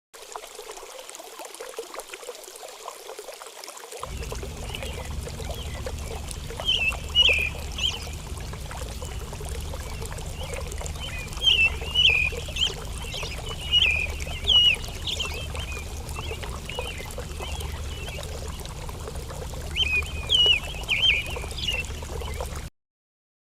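Steady trickling of running water, with a low rumble joining about four seconds in. Three clusters of short bird chirps come through over it.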